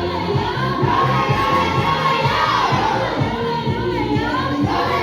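A group of voices singing together over music with a steady beat, with crowd noise behind them.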